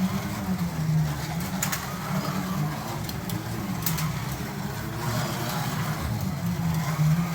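Carrera Digital 132 slot cars running on the track, their electric motors giving a low hum that rises and falls as they speed up and slow down around the circuit, with a few sharp clicks.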